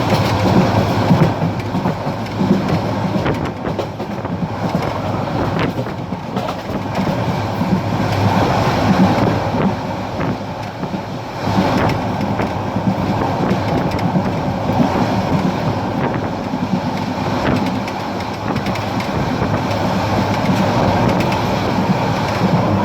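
Parabat Express passenger train running along the track: a steady rumble of wheels on the rails, with a few faint clicks.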